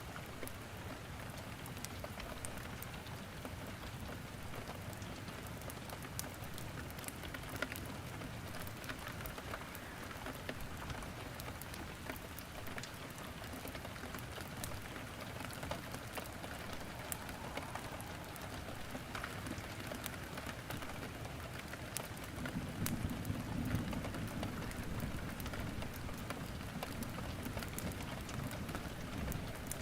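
Steady rain falling, mixed with scattered sharp crackles and pops of wood burning in a fireplace. A deeper low rumble swells for a few seconds about two-thirds of the way through.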